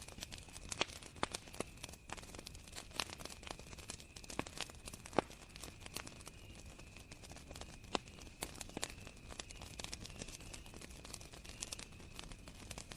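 Wood campfire crackling, with irregular sharp snaps and pops and one louder pop about five seconds in, over a steady high chirring of crickets.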